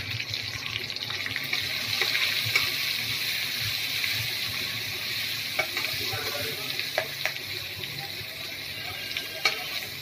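Garlic cloves and green chillies sizzling in hot oil in a kadai as they are stirred with a metal spatula. A few sharp clicks of the spatula against the pan come in the second half.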